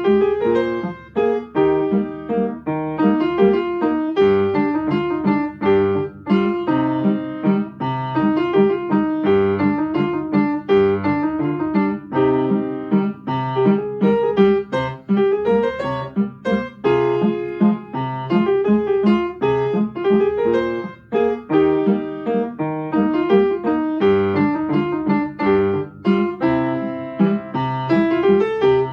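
Solo piano playing a continuous stream of notes in a steady, flowing rhythm, with no pauses.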